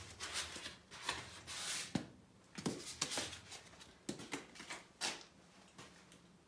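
Hand tools and metal parts being handled at the old water heater: irregular clicks, knocks and short scrapes, thinning out near the end.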